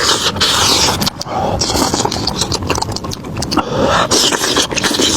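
Loud crunching and chewing of food, a dense run of crisp crackles broken by short pauses about a second in and again past the middle.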